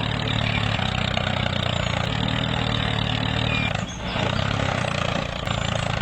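Small engine of a homemade mini tractor running steadily, with a brief dip in level about four seconds in.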